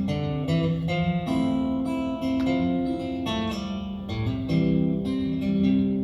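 Acoustic guitar played solo between sung verses, strummed and picked chords changing about every half second.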